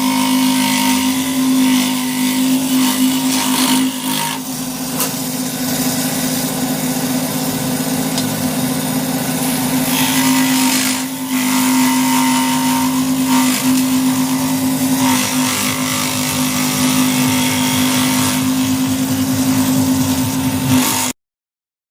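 An electric woodworking power tool running steadily, with a strong hum and a dense hiss of the work above it. It cuts off suddenly near the end.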